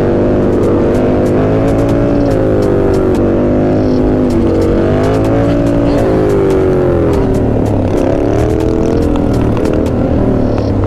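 Several motorcycle engines running and revving, their pitch rising and falling as the riders work the throttle, over a steady low engine hum.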